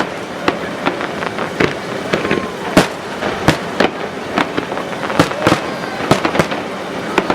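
Fireworks bursting overhead in a rapid, irregular series of sharp bangs and pops.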